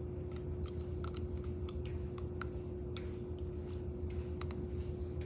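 Dental floss worked between the teeth: small, irregular clicks and snaps, over a steady hum.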